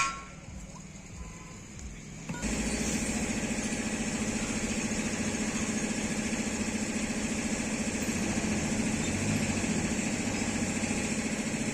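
An engine or motor starts abruptly about two seconds in and runs steadily with an even hum and hiss.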